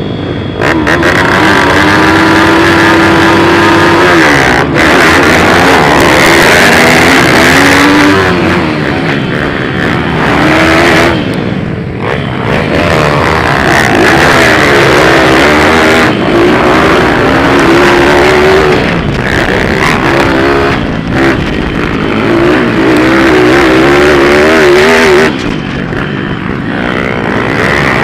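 Several pit bike engines racing, revving up and down with gear changes. Their overlapping pitches rise and fall continuously, and they ease off briefly twice.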